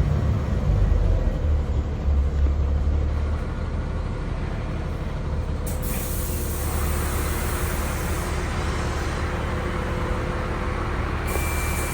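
Bus engine and running gear rumbling, easing off after a few seconds as the bus slows, then a click and a long hiss of released compressed air lasting about five seconds. A thin steady tone starts as the hiss cuts off.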